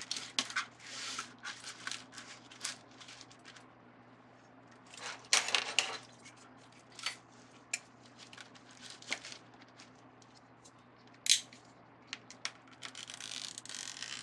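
Plastic deco mesh rustling and crinkling as it is handled and straightened, with scattered small clicks and knocks, a louder rustle about five seconds in and a sharp click near the end.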